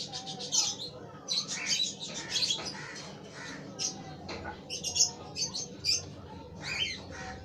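Baby lovebird chick giving rapid, high-pitched begging squeaks and chirps as it is fed formula from a syringe.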